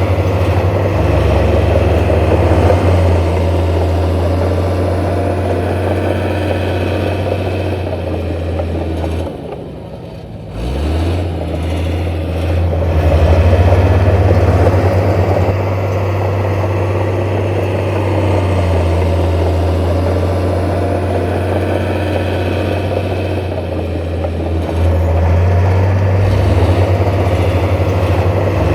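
Heavy diesel construction machinery engine running steadily under load. About a third of the way in it drops off briefly, then revs back up.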